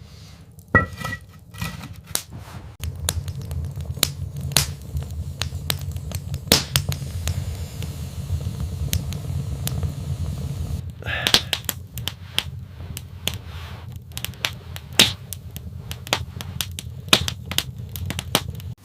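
Irregular sharp clicks and knocks, several loud single ones and a quick cluster about two-thirds of the way in, over a low steady rumble.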